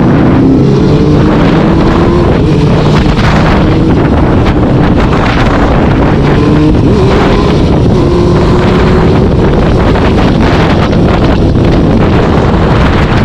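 A vehicle engine pulling under acceleration, its pitch rising several times and dropping back as it shifts through the gears, under loud wind buffeting the microphone at cruising speed.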